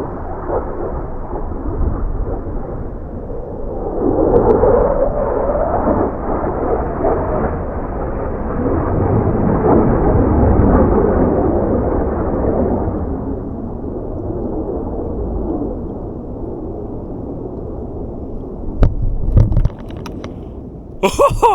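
Low-flying military fighter jet passing through the glen: a very loud rumbling jet noise that swells about four seconds in, is loudest around ten seconds, then slowly fades away.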